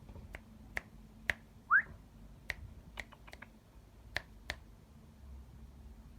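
A pet canary giving one short upward chirp about two seconds in, the loudest sound, among a scatter of about ten sharp clicks over the first five seconds.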